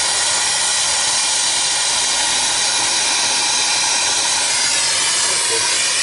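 Brazing torch flame hissing steadily as it heats a copper refrigeration line joint for brazing.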